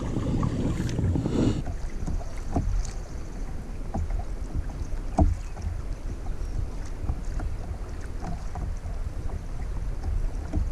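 Wind rumbling on the microphone on open water, with a few sharp knocks from the small fishing boat.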